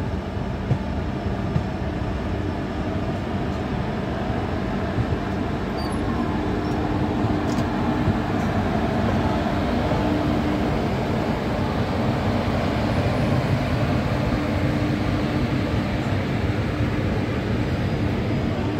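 Indian Railways express passenger coach running on the track, heard from an open door: a steady rumble of wheels on rail mixed with wind noise, under a steady low hum.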